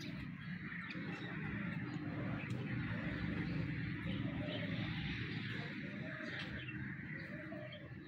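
Birds calling faintly over a steady background of outdoor noise.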